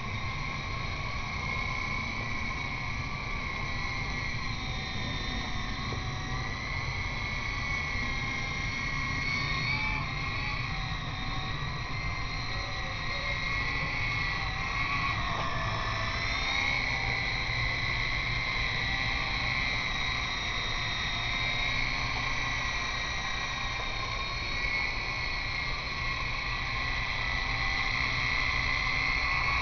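E-flite Blade CX2 coaxial electric RC helicopter whining in flight, the motor and rotor pitch wavering up and down as it is flown against strong wind. Low wind rumble on the microphone underneath.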